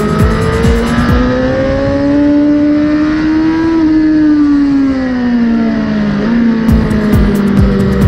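A 2019 Suzuki GSX-R1000R's inline-four with a K-Factory full exhaust, heard from the rider's seat. The engine pulls hard with its pitch rising for about four seconds, then falls steadily under engine braking. Its pitch steps up briefly about six seconds in.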